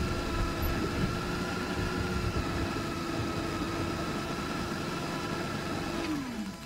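The supercharged M271 four-cylinder engine of a 2003 Mercedes C180 Kompressor idling steadily with a constant whine. About six seconds in it is switched off, and the whine falls in pitch as the engine spins down.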